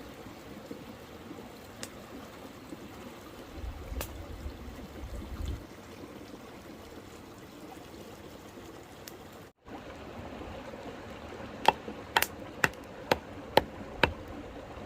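Mountain river flowing steadily. Near the end come about six sharp clicks or knocks in quick succession, louder than the water.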